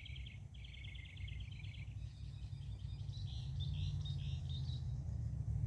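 Small birds chirping and trilling in quick repeated notes, over a low steady rumble that grows louder toward the end.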